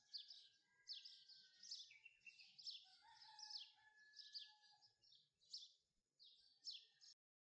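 Birds chirping faintly: clusters of quick, high, downward-sliding chirps about once a second over softer whistled notes, stopping abruptly near the end.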